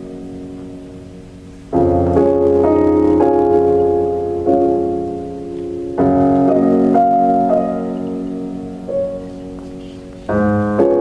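Slow piano music: full chords struck about every four seconds and left to ring and fade, with a few melody notes moving above them.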